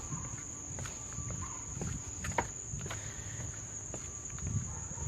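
A steady high-pitched insect trill, like crickets, with footsteps on the boardwalk and a sharp click about two and a half seconds in.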